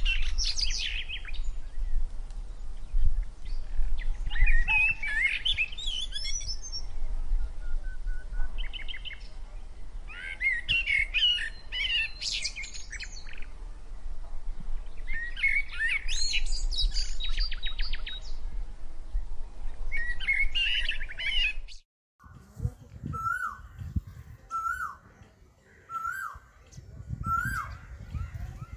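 Songbirds singing in bursts of quick chirping phrases every few seconds over a low rumble. About 22 seconds in the sound cuts to a single short call repeated about once a second, with a few low thuds beneath.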